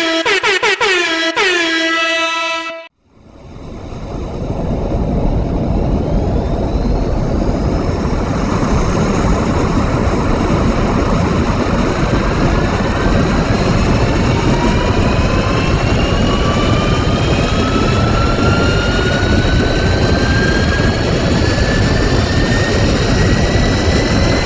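A short run of pitched, horn-like tones that dip in pitch several times, cutting off about three seconds in. After a brief gap a jet engine's noise builds up and runs steadily, with turbine whines rising slowly in pitch as it spools up.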